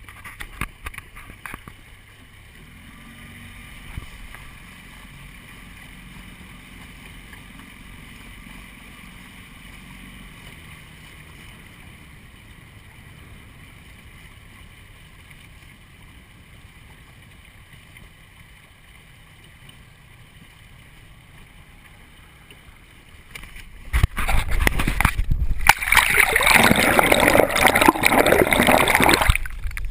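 Quiet water noise around a small sailboat under way, then, from about six seconds before the end, a loud rushing noise that cuts off just before the end.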